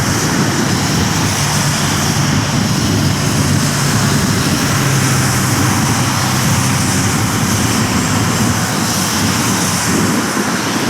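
Jet airliner engines running, a loud steady rush of noise with a low hum under it.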